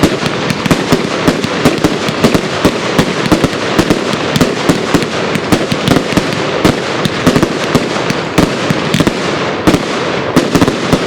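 A Silver Willow fireworks cake firing: a rapid, continuous barrage of launch shots and bursting reports with crackle between them, tailing off at the end.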